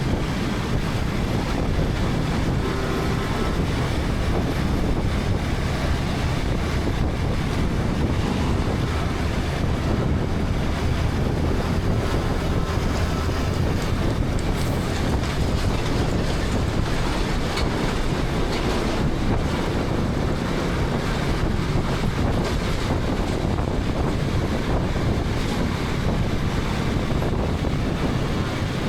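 KTM 250 Adventure's single-cylinder engine running steadily while riding, mixed with heavy wind buffeting on the helmet camera's microphone and road noise.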